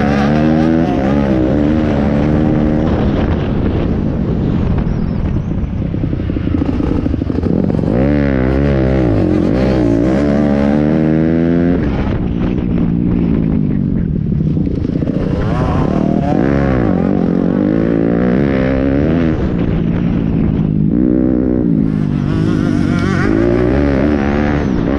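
Pit bike engines revving up and down, the pitch rising and falling again and again as the throttle opens and closes.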